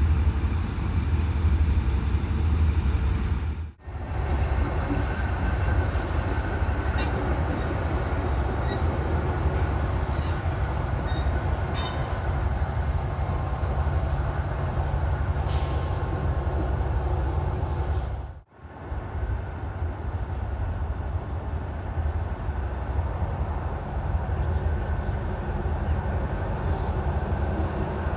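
Diesel train running with a steady low rumble and a few light clicks; the sound breaks off briefly twice, about four and eighteen seconds in.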